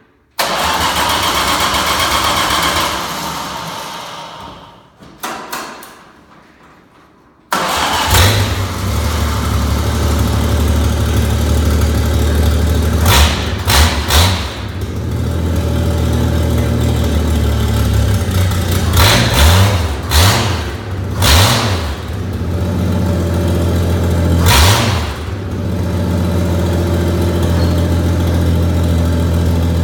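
A 1949 Dodge rat rod truck's engine being started: a long noisy stretch of cranking that fades, a couple of short bursts, then it catches about seven and a half seconds in. It then runs with several quick revs before settling to a steady idle.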